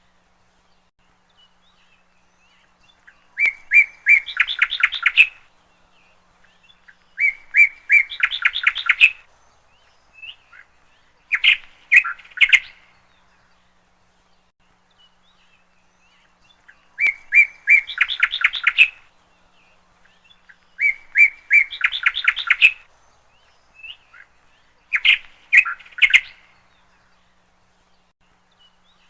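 A songbird singing short phrases: a couple of clear notes, then a quick run of chirps. The phrases come every few seconds, with a longer pause midway.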